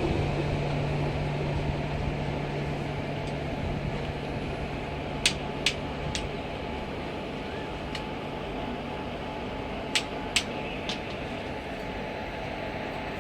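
Train noise on the railway: a steady low hum that dies away about halfway through, with sharp clicks in two groups of two or three, about half a second apart.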